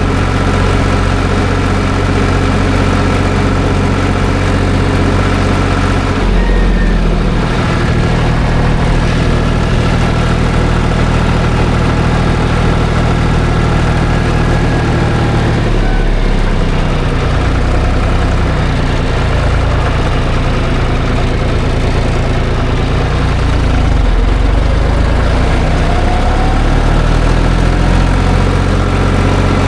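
Farm tractor engine running steadily while the tractor is driven. Its low engine note shifts several times, about a quarter, half and three quarters of the way through, as the engine speed or load changes.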